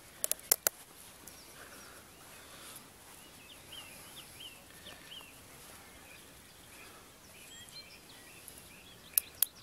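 Quiet lakeside background in which a bird calls a run of about six short chirps in the middle. A few sharp clicks come near the start and again near the end.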